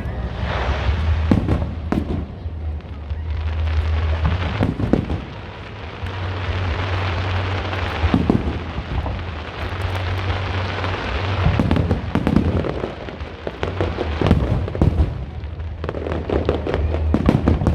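Aerial fireworks display: shells bursting in many sharp bangs, one after another, over dense crackling from the bursts.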